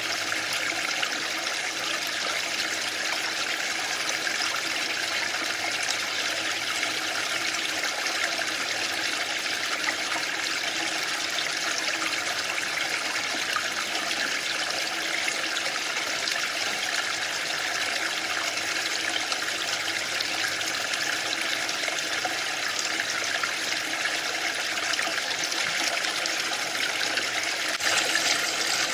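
Waterfall: water falling and splashing in a steady, unbroken rush, getting a little louder for a moment near the end.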